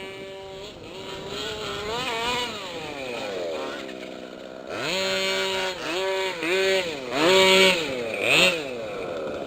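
Small two-stroke engine of a gas-powered 1/5-scale RC off-road truck revving up and down. In the second half there are several short bursts held at high revs, the loudest about two-thirds of the way in.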